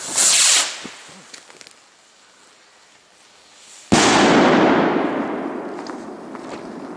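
Firework rocket with only half its guide stick: a short hissing whoosh as it goes off, then about four seconds in a single loud bang that echoes and slowly fades away.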